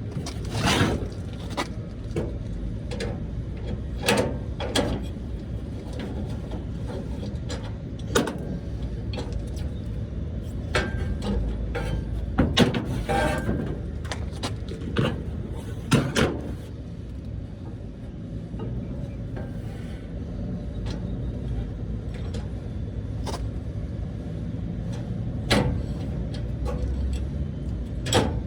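Scattered clicks and knocks of tools and metal parts being handled on an air-conditioning unit, over a steady low rumble.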